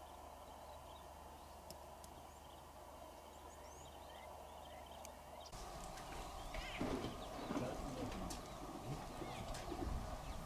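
Birds calling: faint short chirps at first, then from about halfway through a louder, busier mix of lower calls and chirps that starts abruptly.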